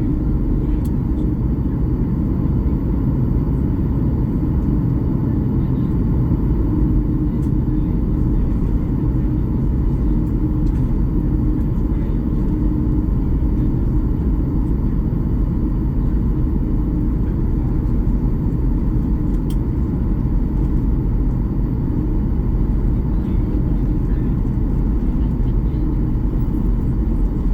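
Steady cabin rumble inside a Boeing 737 MAX-8 airliner: engine and airflow noise holding an even level, with a faint steady hum on top.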